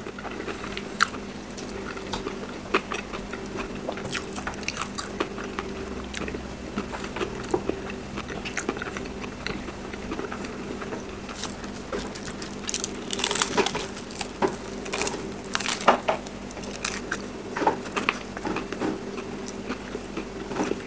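Close-up eating sounds: a person biting into and chewing crispy fried chicken, with irregular crunches of the fried crust and a run of louder crunches a little past the middle.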